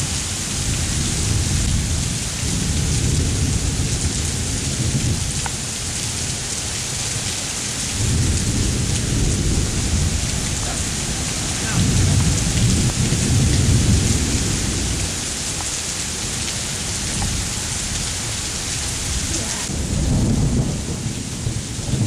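Heavy downpour: a steady, loud hiss of rain pelting a flooded street, with low rumbles that swell and fade every few seconds.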